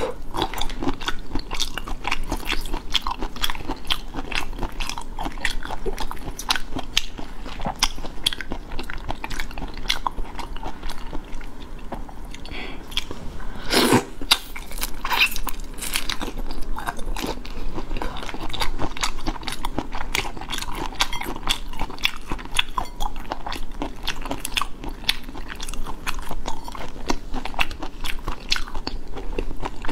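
Close-miked eating of large prawns: biting and chewing with many small crunches and wet mouth clicks, and one sharper crunch about 14 seconds in.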